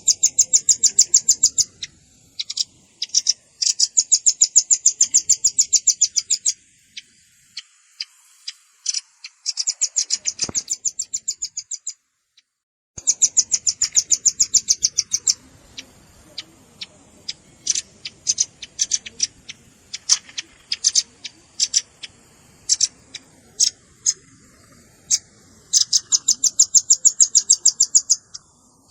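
Velvet-fronted nuthatch calls: fast trills of high, sharp chips in bursts of two to three seconds, with scattered single chips between them. There is a brief dead gap about twelve seconds in.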